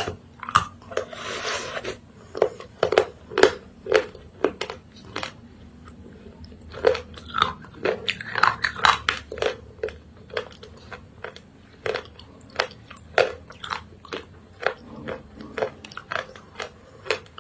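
Close-up biting and crunching of hard, earthy clay pieces coated in creamy paste. Sharp, irregular crunches come about two or three a second between chewing sounds.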